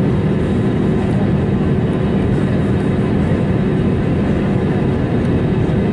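Steady cabin noise of an Airbus A321neo taxiing: its Pratt & Whitney PW1100G geared turbofans run at idle thrust as a constant deep rumble with a few faint steady tones.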